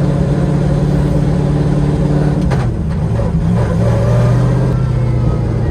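Pro drift car's engine running steadily at freeway cruise, with a brief break in its note about halfway through before it settles back to a steady drone.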